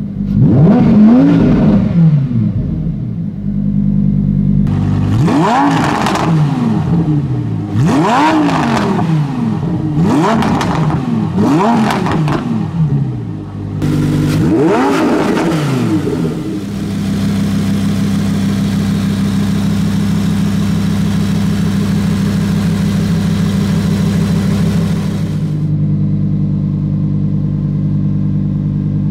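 Lamborghini Huracán Performante's 5.2-litre V10 free-revving in park, with about six quick throttle blips that each rise and fall in pitch. About two-thirds of the way through it settles into a steady idle.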